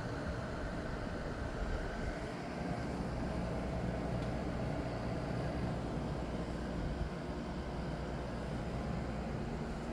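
Danby 12,000 BTU air conditioner running: a steady rush of air from its fan over a low hum.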